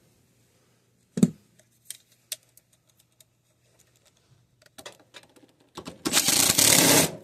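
Clicks and knocks of tools and small parts being handled while a breaker is fitted into an air handler's panel, with one sharper knock about a second in. Near the end comes about a second of loud rustling noise.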